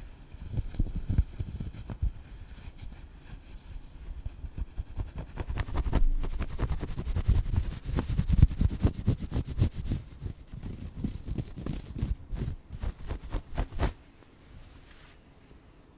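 Close scratching and brushing on the microphone with many clicks and some loud bumps, stopping suddenly about two seconds before the end. After that a steady high chirring of crickets is left.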